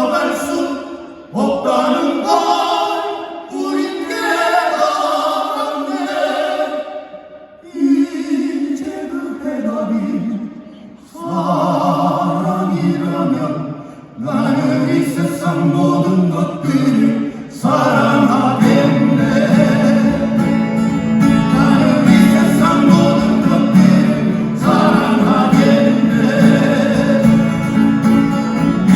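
Male vocal quartet singing in harmony over acoustic guitars. The sung phrases break off briefly every few seconds at first, then become fuller and continuous about two-thirds of the way through.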